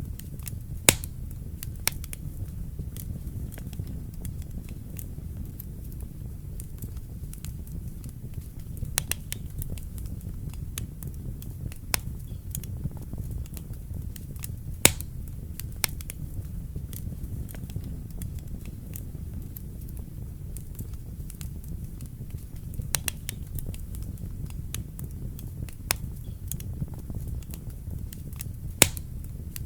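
Wood fire burning in a fireplace: a steady low rumble of flames with scattered sharp crackles and pops, a few louder snaps standing out about a second in, halfway through and near the end.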